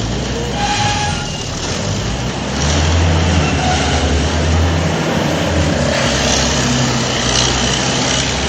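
Engine-like drone: a steady low hum over a dense hiss, growing louder about two and a half seconds in.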